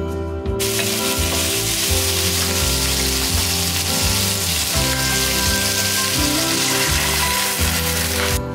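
Sliced pork and Chinese sausage sizzling hard as they are stir-fried in a hot wok. The sizzle starts about half a second in and cuts off suddenly near the end.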